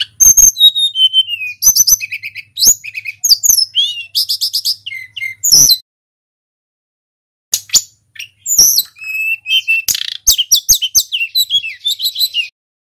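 Tledekan gunung, a small flycatcher, singing two long bursts of rapid, varied high notes and falling slurs, with a pause of under two seconds between them.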